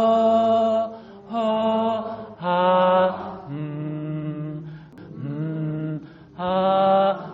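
A voice chanting held vowel tones, about six notes of roughly a second each, stepping up and down between a low, middle and high pitch: meditative toning that combines three tones to move the sound between belly, chest and head.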